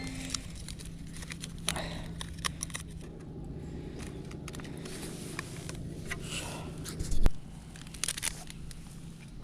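Scattered clicks and light scrapes of things being handled, over a steady low hum that cuts off with one loud knock about seven seconds in.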